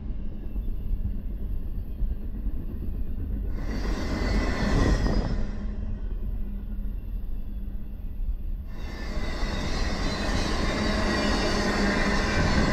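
CSX double-stack intermodal freight train rolling past, its well cars making a continuous low rumble of wheels on rail. About four seconds in, and again from about nine seconds in, high-pitched squealing and hissing wheel noise rises over the rumble.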